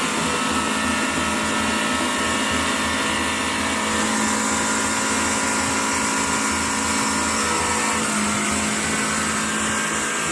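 Heavy truck's diesel engine running hard at steady high revs, with a dense mechanical whine.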